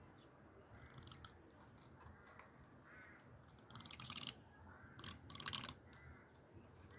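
Near quiet, broken by two short clusters of small clicks and rattles, about four seconds in and again about a second later.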